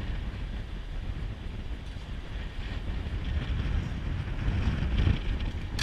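Strong wind buffeting the microphone over choppy water, an uneven low rumble.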